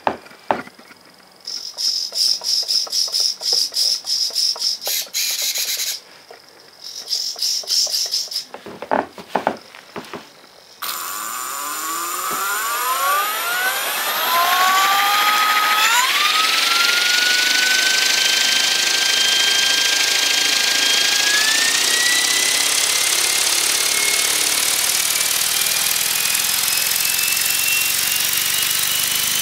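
Servos of an Esky ES 600 electric RC helicopter buzzing in short back-and-forth bursts, then a few clicks. About eleven seconds in, the electric motor spools up with a rising whine and keeps slowly gaining speed, with a growing rush of air from the rotor.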